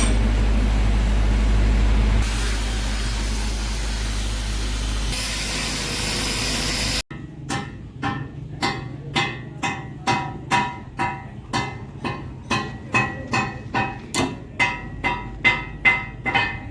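A steady hiss with a low hum beneath it, which cuts off suddenly about seven seconds in. Then a hammer strikes steel over and over, each blow ringing, about two blows a second and quickening toward the end.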